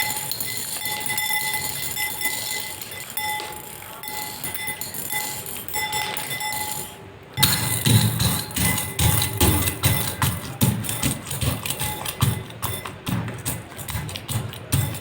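Slime being squished and poked by hand: dense, irregular sticky clicks, crackles and soft low squelches that start suddenly about seven seconds in, after a stretch of steady hiss with a faint high hum.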